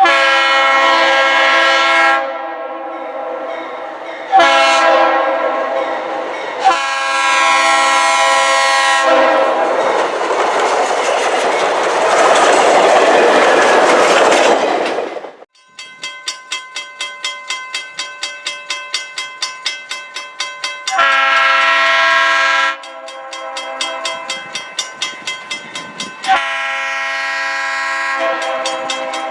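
A passing train's multi-chime horn sounds several long blasts, then the train goes by loudly, followed by its wheels clicking in an even rhythm over the rail joints. Two more horn blasts sound near the end.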